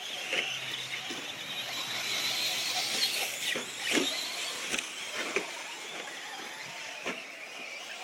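Radio-controlled short course trucks racing: high-pitched motor whine that swells about three seconds in, with several sharp clacks of the trucks landing or hitting things.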